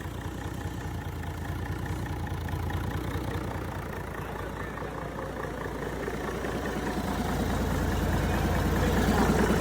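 Mack E6 mechanical inline-six diesel engine running at idle with a rapid, even firing pulse, growing louder over the last few seconds.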